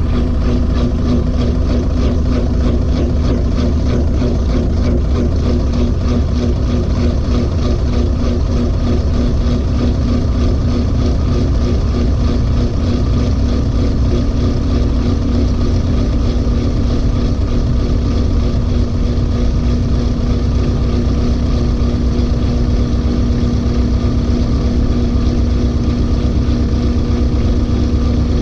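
LG 18 kg washing machine in its final spin with a heavy load of clothes, its drum spinning at a steady speed with a low rumble and a steady motor hum.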